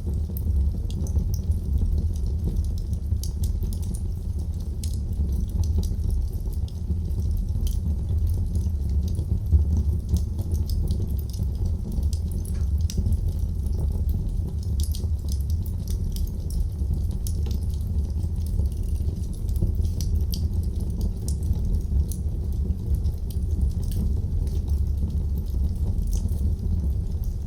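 Wood fire burning in a fireplace: a steady low rumble of flame with frequent small, irregular crackles and pops.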